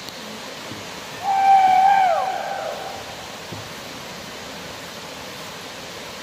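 A single drawn-out hooting call about a second in, held level for about a second and then sliding down in pitch, over a steady hiss.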